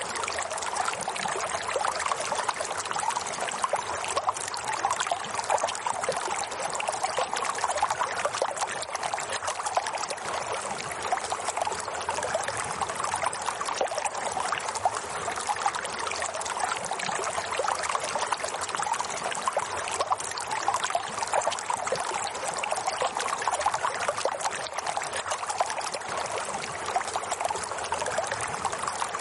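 Water running steadily in a small stream, a constant trickling flow with no change in level.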